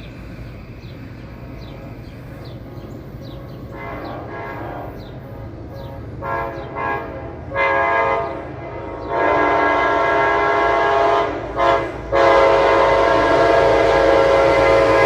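Metro-North locomotive 1868's multi-chime horn sounding a series of blasts over the train's rumble, growing louder as it approaches. First come several short blasts, then a long one about nine seconds in, a brief one, and a long held blast from about twelve seconds, the loudest of all.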